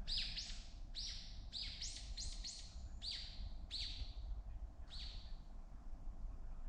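A bird calling in a forest: a series of about eleven high, arching chirps, roughly two a second, each followed by a short echo. They stop near the end, over a low, steady background hum.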